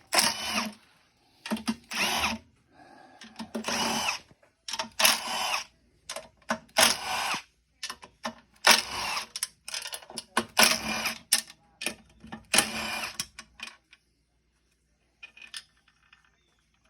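Electric power tool run in about ten short bursts, its motor whining up and back down each time, as fasteners are spun out during an engine teardown; the bursts stop a few seconds before the end.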